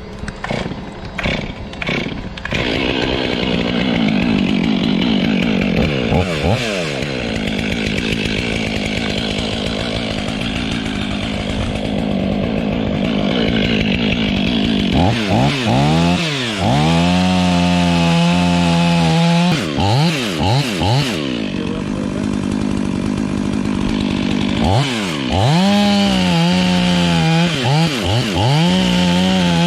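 Chainsaw running and cutting into dead ash wood, its engine revving up and dropping back again and again. The longest full-throttle cuts come about halfway through and again near the end.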